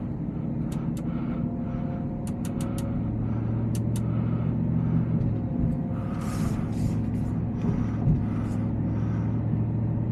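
Shelby F-150 Super Snake's supercharged 5.0-litre Coyote V8 (3-litre Whipple supercharger) running at steady, moderate revs as the truck drives, heard from inside the cab as a low drone that builds slightly over the first few seconds. A few faint clicks sound about two to four seconds in.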